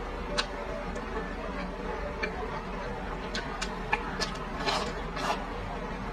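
Close-miked mouth sounds of someone chewing red-braised pork: irregular wet smacks and sticky clicks of lips and mouth, more frequent in the second half, over a faint steady hum.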